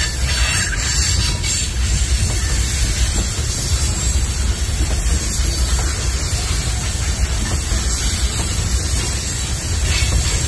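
Freight train rolling by: a steady, loud rumble with a rushing hiss over it.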